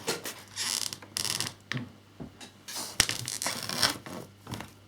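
Objects being handled and set down on a desk: irregular rustling and scraping, with a sharp knock about three seconds in.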